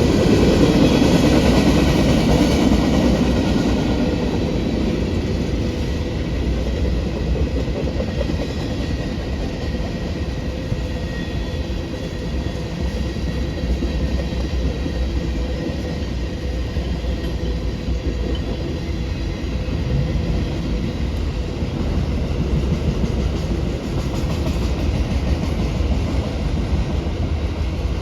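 Freight train rolling past: a steady rumble with the run of wheels over the rails, a little louder in the first few seconds and then even.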